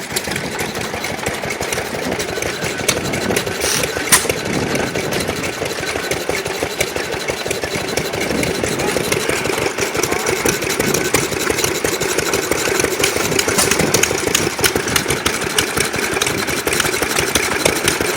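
Antique hit-and-miss gas engines running, a steady dense clatter of firing strokes and valve ticks, with one sharper bang about four seconds in.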